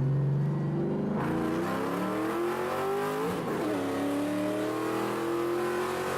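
Ford Mustang GT's 4.6-litre V8, straight-piped with long-tube headers and no catalytic converters, accelerating hard and loud. The pitch climbs, drops sharply at an upshift about three and a half seconds in, then climbs again in the next gear.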